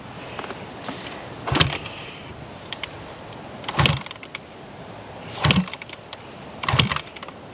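Dirt bike being kick-started: four short thumps of the kickstart lever about two seconds apart, without the engine catching.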